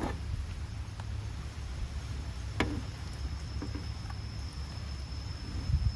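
Outdoor ambience: a steady low rumble with a few light clicks, and a faint, thin, high steady tone from about halfway in.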